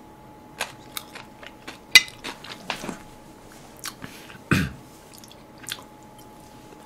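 Close-miked chewing and biting on a mouthful of Korean side dishes, heard as a scatter of irregular crunches and wet clicks, busiest in the first three seconds. A faint steady thin tone hums underneath.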